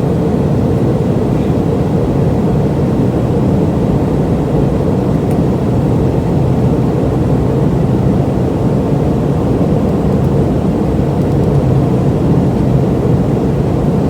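Steady, loud cabin noise inside a McDonnell Douglas MD-88 airliner: the rumble of its rear-mounted Pratt & Whitney JT8D turbofans and the rush of air, deep and even.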